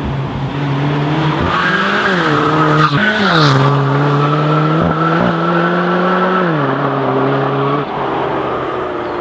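Alfa Romeo 4C's turbocharged four-cylinder engine running through a Quicksilver valved sport exhaust. The engine note climbs, drops sharply about three seconds in as if at a gear change, climbs again, holds steady, and falls back about six and a half seconds in. A brief high whistle sounds just after the drop.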